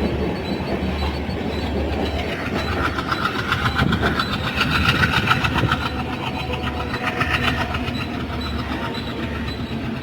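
Madgaon–LTT Double Decker Express coaches rolling past, their wheels clattering steadily over the rail joints. A high-pitched note rises over the train noise through the middle few seconds.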